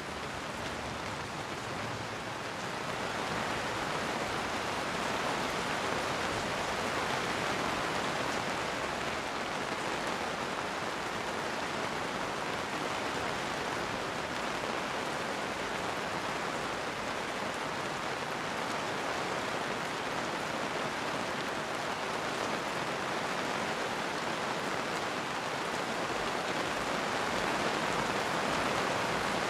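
Steady rain falling as a dense, even patter, growing a little louder about three seconds in.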